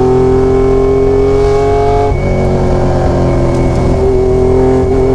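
Lancia Stratos HF's Ferrari Dino V6 heard from inside the cabin, pulling under acceleration with its pitch climbing steadily. The pitch drops sharply at an upshift about two seconds in, then climbs again.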